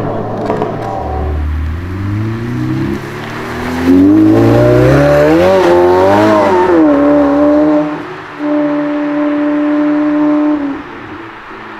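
Supercar engine accelerating hard, its pitch climbing, then holding a steady high note for a couple of seconds before dropping away near the end.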